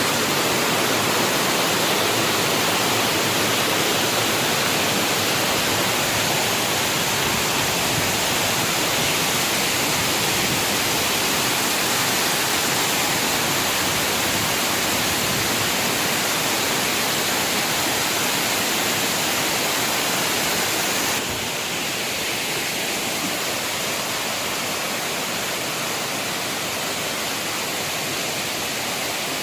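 Waterfall rushing, a steady roar of falling water. About two-thirds of the way through it drops slightly in level, with less of the high hiss.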